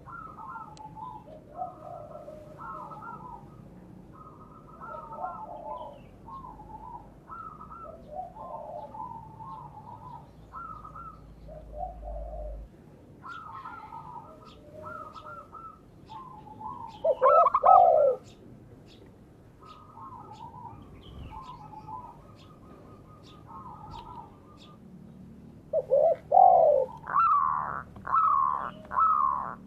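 Spotted doves and zebra doves cooing in short repeated phrases, some lower and some higher pitched. A louder bird breaks in near the end with a fast run of repeated downward-sliding calls.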